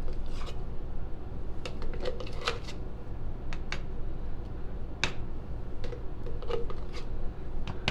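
Scattered light clicks and taps of things being handled, over a steady low hum.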